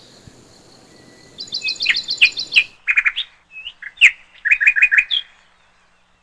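Lovebirds chirping in quick runs of high, sharp notes, several a second. They fall silent about five seconds in.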